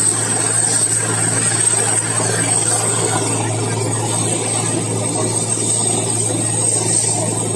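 Helicopter running steadily, a constant drone with a steady high whine over it.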